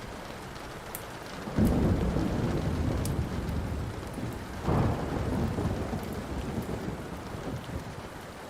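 Steady rain with rolling thunder: a low rumble breaks in about a second and a half in, swells again about five seconds in and slowly dies away. A few sharp crackles of a burning wood fire sit on top.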